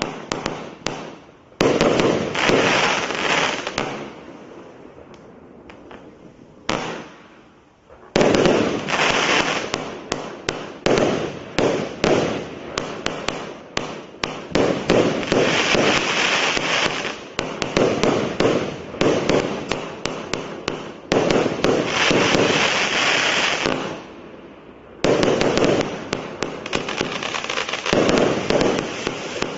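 A 94-shot cake firework, a battery of shot tubes, firing in rapid volleys: many sharp launch thumps and bursts, several a second, with crackling in between. There are short lulls about four to eight seconds in and again near twenty-four seconds.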